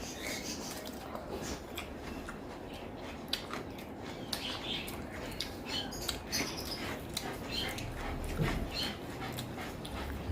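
A Labrador's soft whimpering, among close chewing and lip-smacking mouth clicks.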